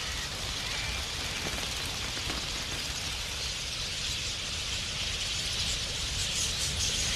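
A huge flock of wild budgerigars chattering together, a dense steady mass of twittering that swells slightly near the end.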